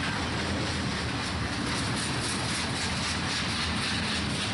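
Freight cars rolling past on the track, a steady rumble of wheels on rail with faint regular clicking: the last cars of a passing freight train.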